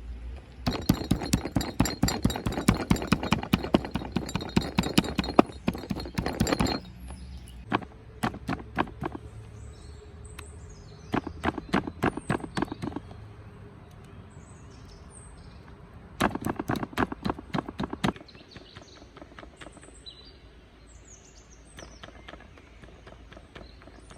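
A stone pounding raw chicken breast flat, in bouts of rapid knocks several a second, the longest about six seconds near the start, then shorter bouts. Small birds chirp between the bouts.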